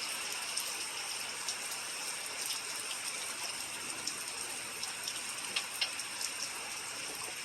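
Steady rain falling, an even hiss dotted with the ticks of single drops striking a surface, two sharper drop hits about two-thirds of the way through.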